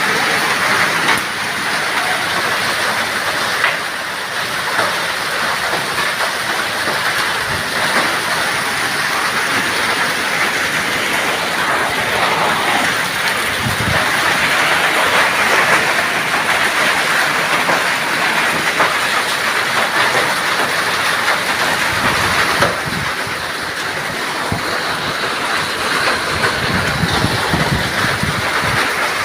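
Heavy rain mixed with hail pelting down: a loud, steady, dense clatter of many small impacts, easing slightly near the end.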